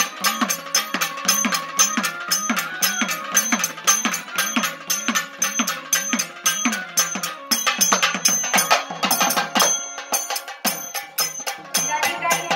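Devotional folk music played on percussion: a fast, even beat of drum strokes with ringing metallic clinks, about four strikes a second, dropping out briefly near the end.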